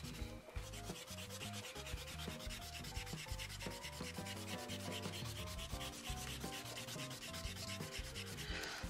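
Rubber eraser rubbed quickly back and forth over paper, rubbing out pencil lines, in a fast, even rhythm of short strokes.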